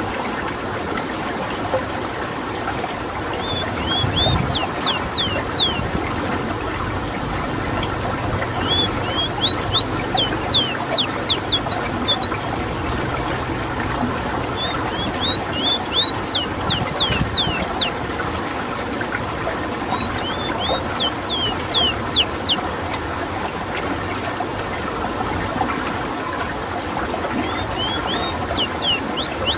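Ruddy-breasted seedeater (rowti) singing. Five phrases of quick, high whistled notes, each note sliding sharply downward, come with pauses of a few seconds between them, over a steady hiss.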